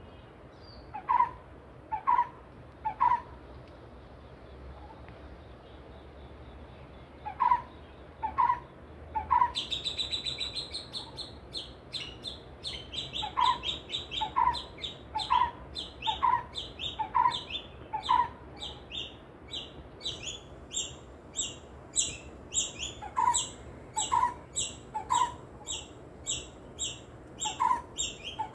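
Wild birds calling. One bird repeats a single note about a second apart, in runs of three to five with pauses between. From about ten seconds in, a fast, steady series of high, thin notes comes a few times a second.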